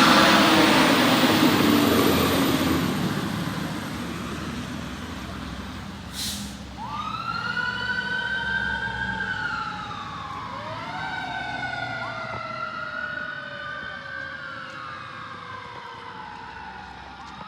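Fire engine passing close, its engine and road noise loud at first and fading over the first few seconds. Its siren then sounds in repeated rising sweeps from about seven seconds in, the pitch sagging lower as it moves away. A brief sharp click comes about six seconds in.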